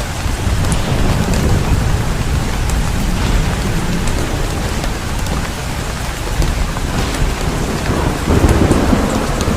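Heavy rain pouring down steadily, with a low rumble that swells about eight seconds in.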